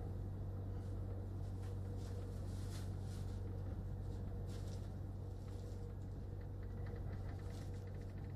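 Steady low hum of an electric passenger train, with a faint steady tone above it, light rustling and a few soft ticks in the second half.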